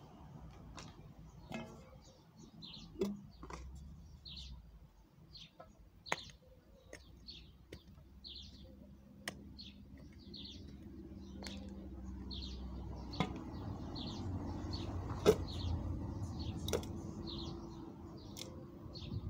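A small bird chirping over and over, short high chirps about once or twice a second, with scattered sharp clicks and knocks, the loudest about fifteen seconds in, and a low rumble that grows in the second half.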